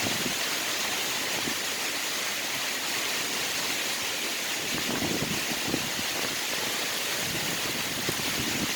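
Heavy rain pouring down in a thunderstorm, a steady hiss, with a few brief gusts of wind buffeting the microphone about five seconds in and near the end.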